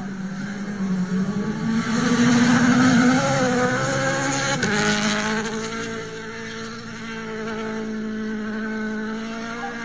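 Rally car engine at high revs, getting louder to a peak about two to three seconds in, then dropping sharply in pitch near the middle as it shifts gear, and running on steadier and quieter.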